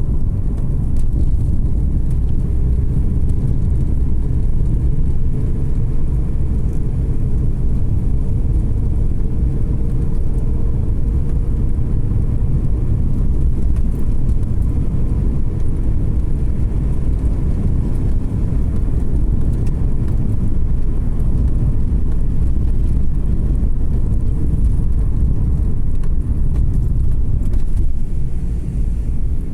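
Car driving uphill, its engine and tyres making a steady low rumble.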